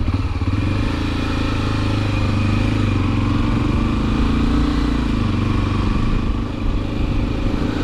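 Motorcycle engine running steadily as the bike rides and picks up speed from about 20 to 30 km/h. The engine note rises and then dips about halfway through.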